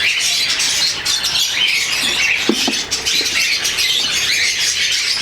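Many caged small parrots chattering at once in a bird farm's aviary: a dense, steady din of high chirps and squawks, with a couple of short lower calls about halfway through.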